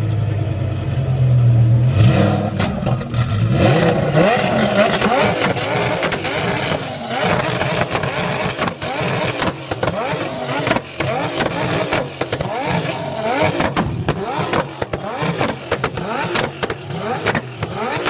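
Car engines running and revving, with many short rises in pitch one after another. A steady low engine drone is heard for the first two seconds.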